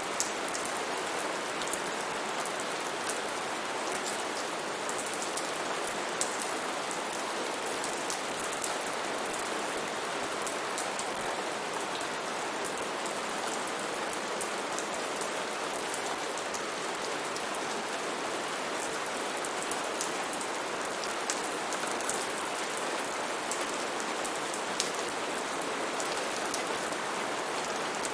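Steady heavy rain falling on rainforest foliage, a constant hiss with many scattered drop ticks.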